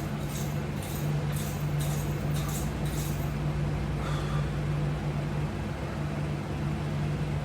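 A steady low hum over a background hiss, with faint, irregular rustling in the first three seconds.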